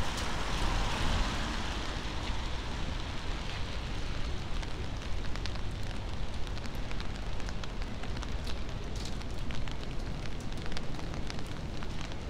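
Rain falling on a city street, a steady hiss full of small ticks of drops, with a low rumble underneath. The hiss is louder in the first couple of seconds, then settles.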